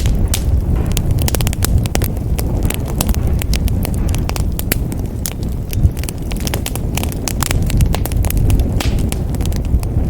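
Wood fire in a fireplace crackling and popping, many sharp snaps over a steady low rumble of the flames.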